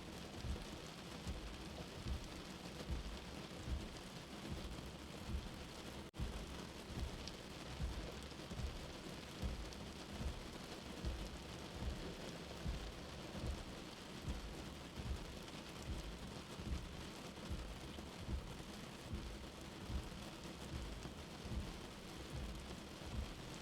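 Steady rain with a soft, low heartbeat thumping about once a second underneath. The rain dips out for an instant about six seconds in.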